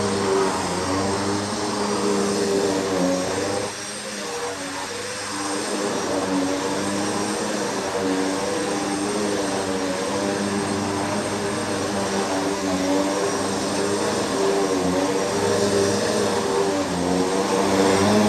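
Bissell PowerForce upright vacuum cleaner running steadily, its motor hum wavering slightly in pitch, with a brief drop in level about four seconds in. The owner says its brush roll doesn't sound quite right and needs oiling.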